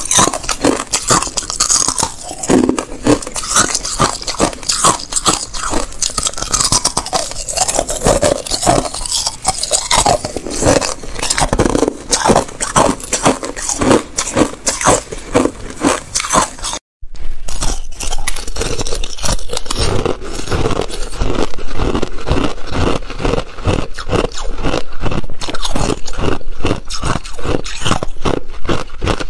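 Thin ice being bitten and chewed: loud, rapid, irregular crunching and crackling, with a brief break about seventeen seconds in.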